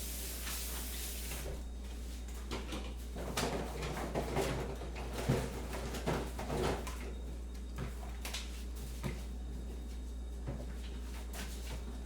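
Kitchen clatter: a run of small knocks and clicks, like cupboards, drawers and crockery being handled, busiest from about three to seven seconds in, with a few single clicks later, over a steady low hum. A short hiss fades out a second or so in.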